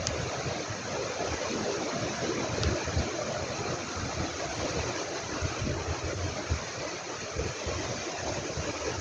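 Steady outdoor rushing noise with irregular low rumbles.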